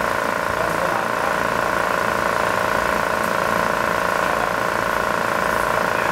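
AMR500-supercharged air-cooled VW 1600 flat-four idling steadily, with an even note that does not rise or fall.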